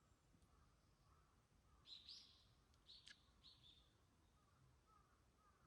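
Faint bird calls: a short, high call about two seconds in, then two more about three seconds in. Fainter, lower chirping runs underneath.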